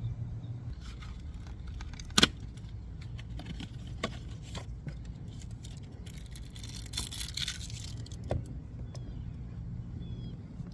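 Sharp metallic clinks and clicks of tools and parts being handled, the loudest about two seconds in, with a brief rustle near the end, over a steady low hum.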